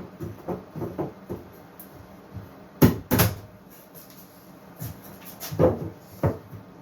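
Wooden boards knocking together as cut cross runners are handled and test-fitted between the rails: two sharp knocks close together about three seconds in, and a few softer knocks near the end.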